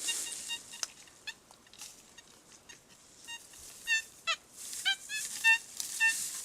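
Metal detector sounding over a buried metal target: short, evenly pitched beeps repeat, with a burst of warbling, pitch-shifting tones about four to five seconds in. A few sharp clicks are heard alongside.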